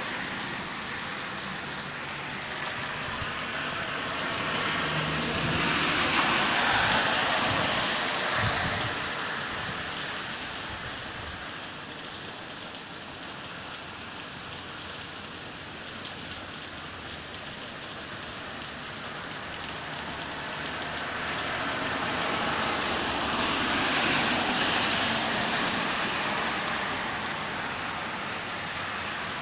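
Steady rain falling, a continuous hiss that swells louder twice for several seconds, about a quarter of the way in and again near the end.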